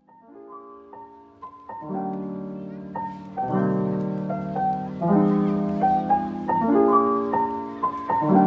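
Soft background piano music: chords struck every second or so, fading in at the start and growing louder over the first two seconds.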